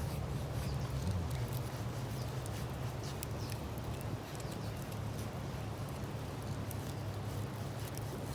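Wood fire burning, with many irregular sharp crackles and pops from the burning wood over a steady low rumble.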